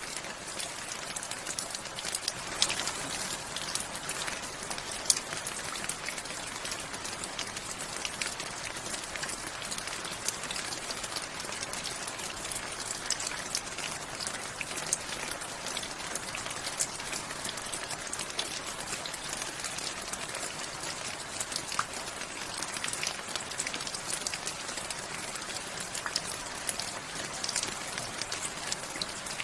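Steady rain, with many individual drops ticking sharply on a hard surface over an even hiss of rainfall.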